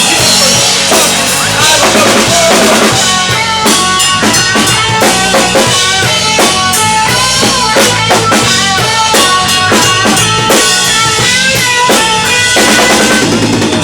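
Live rock band playing loudly, drums to the fore with rapid snare and bass drum hits under guitar, as an instrumental stretch of a song, which winds down near the end.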